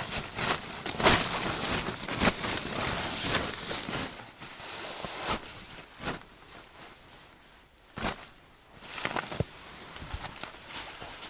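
Footsteps crunching through snow, busiest in the first half and thinning out after the middle, with a sharp click a little before the end.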